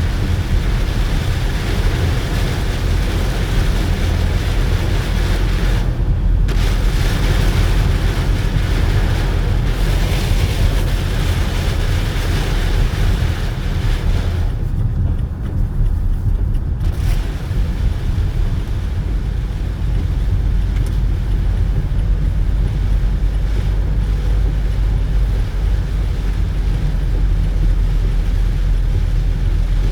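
Steady low rumble and hiss of a car driving in the rain, heard from inside. The hiss drops away briefly about six seconds in and again for a couple of seconds midway.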